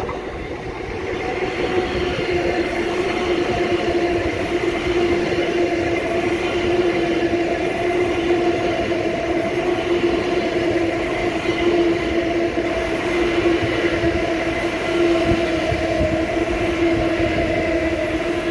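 Long Island Rail Road M9 electric commuter train running past close by on the near track: a steady rumble of wheels on rail with a steady two-note motor hum, growing louder over the first couple of seconds as it comes alongside.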